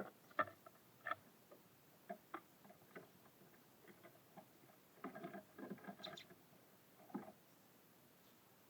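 Small birds at a feeder: irregular light taps and clicks of pecking and landing, with a quick flurry of them about five seconds in.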